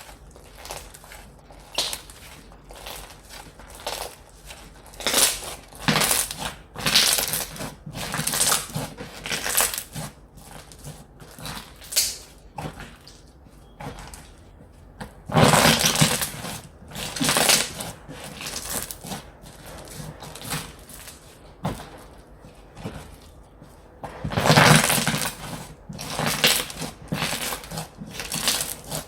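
Hands squeezing, poking and stretching slime, making irregular squishing and crackling sounds, with the loudest presses about halfway through and again near the end.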